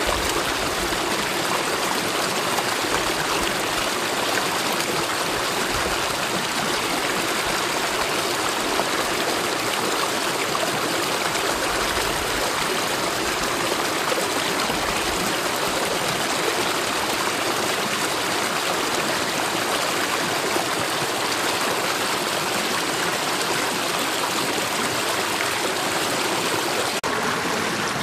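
Mountain valley stream flowing, a steady even wash of water noise.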